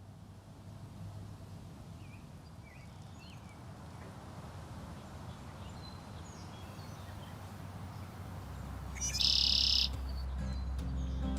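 Wild birds calling over soft outdoor ambience: a few faint, short chirps, then one loud, high call lasting under a second about nine seconds in. A low hum fades in near the end.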